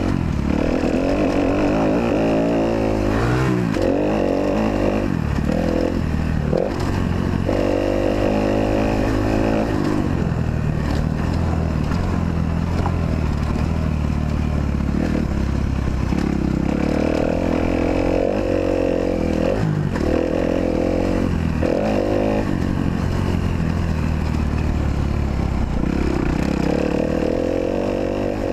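Kawasaki KX250F four-stroke single-cylinder motocross engine running hard, its pitch climbing and dropping again and again as the throttle is opened and rolled off through gear changes.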